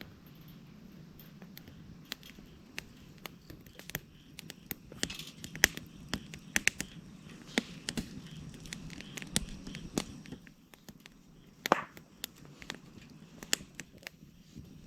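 Dry wood cracking and snapping: many irregular sharp cracks, with a few louder snaps around the middle, over a faint steady background.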